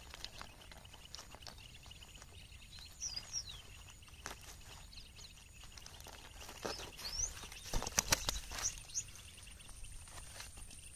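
Outdoor ambience with a few short bird chirps over a steady high-pitched whine, scattered light rustles and clicks from handling the caught rohu on a rice sack, and a quick cluster of sharper knocks about eight seconds in.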